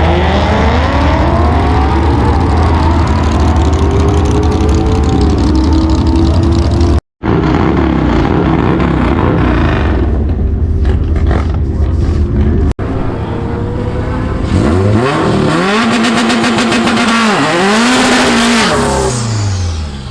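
Turbocharged car engine running hard, its pitch climbing and falling as it revs. It breaks off abruptly twice, and near the end it goes through several quick rises and drops in pitch.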